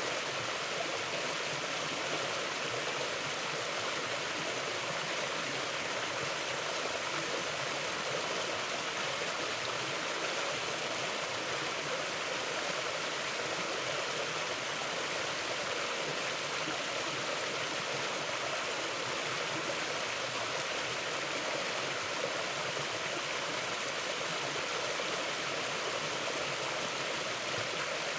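Mountain river flowing: a steady, even rush of water with no let-up.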